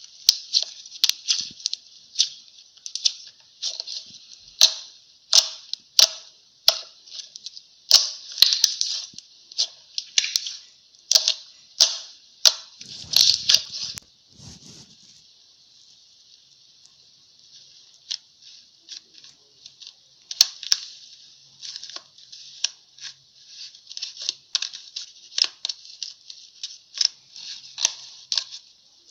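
Fingers poking and pressing slime: a run of sharp, sticky clicks and small pops at an irregular pace, easing off for a few seconds about halfway through.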